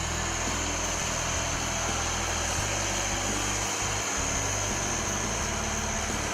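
Case IH 9270 tractor's diesel engine running steadily at idle, a low even rumble with a steady high whine over it.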